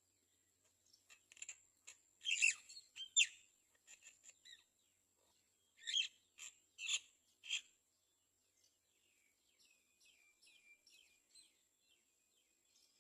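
Great myna calls. Two bursts of loud, harsh calls come about two seconds in and again about six seconds in, followed near the end by a quick run of fainter, short falling chirps.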